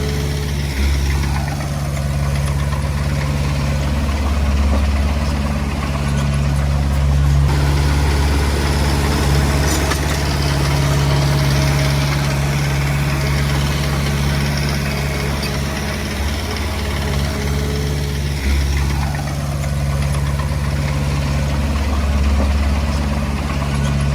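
Diesel engine of a Komatsu D20P small bulldozer running steadily at work.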